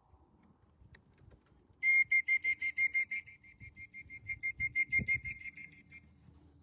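High electronic beeping: a fast, even run of short beeps at one steady pitch, starting about two seconds in and lasting about four seconds.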